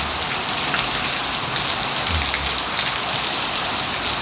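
Heavy rain pouring down in a storm: a steady hiss of rain on surfaces, with scattered drop splashes.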